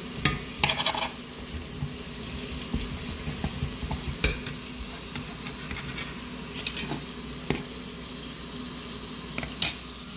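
Asparagus and a meat stew sizzling steadily in frying pans, while a metal spoon stirring the asparagus clinks and scrapes against the pan every few seconds.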